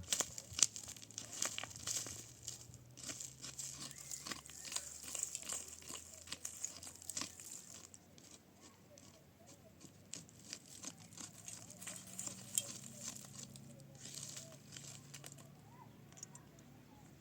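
Dense, irregular crackling, crunching and rustling, as of material being handled and crushed. It is busiest for the first half, then thins out to scattered crackles.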